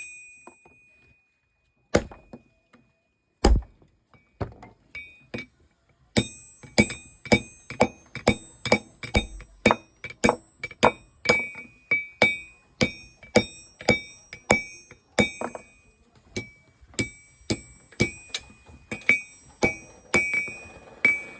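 Hammer blows forging the tip of a steel crowbar on an anvil, each strike ringing. A few separate blows at first, then about six seconds in a steady rhythm of about two blows a second.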